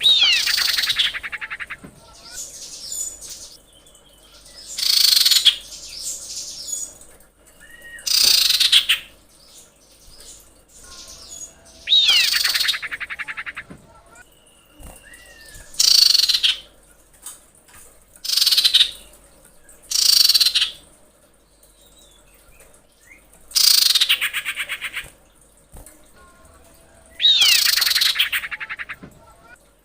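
Common iora (cipoh) calls: about ten loud, fast-rattling high calls, each about a second long and some opening with a falling whistle, repeated every few seconds. This is the female's call to a male, played as a lure.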